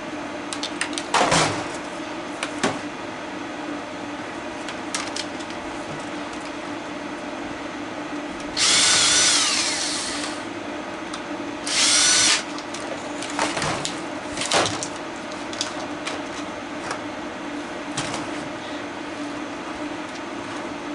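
A power drill-driver runs twice, for about two seconds some eight seconds in and again briefly a moment later, its whine dropping in pitch as it slows. Scattered clicks and knocks of parts being handled sound over a steady background hum.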